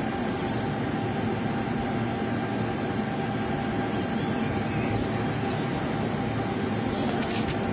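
Steady rumbling noise and hum of a train running past a platform, with a short high rattle near the end.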